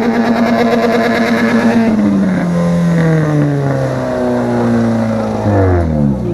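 Race car engine running at steady high revs, then its pitch slides down over about four seconds and drops steeply near the end.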